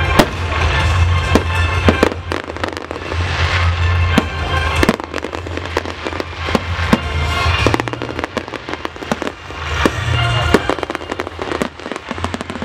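Electrically fired fireworks going off in quick, irregular succession, a string of sharp bangs and crackles, over loud music with a steady bass.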